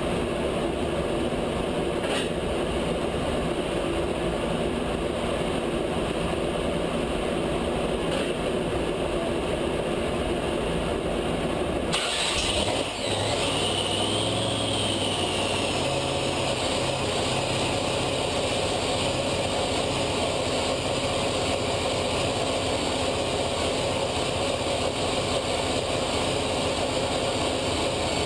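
Car engine and road noise running steadily. About twelve seconds in the sound changes abruptly, with a brief falling whine, and then settles into steady engine running again.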